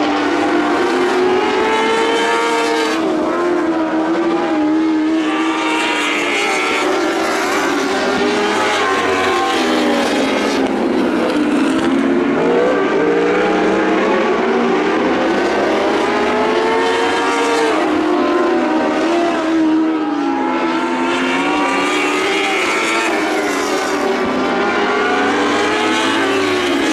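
Lightning sprint car engine racing on a dirt track, its pitch climbing as it accelerates and dropping as it lifts off, in a cycle that repeats every several seconds, lap after lap.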